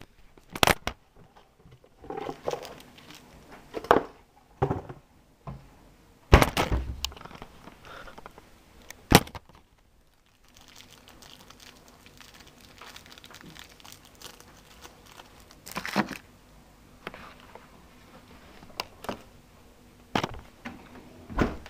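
Knocks and clatter of plastic storage boxes and a plate being put into a dishwasher's racks: a handful of separate sharp thunks spread across the time, with quieter rattling between them.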